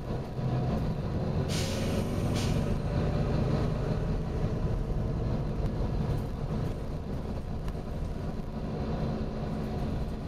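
Volvo B9TL double-decker bus running with a steady low rumble, and about one and a half seconds in two short hisses of compressed air from its air system, the second shorter than the first.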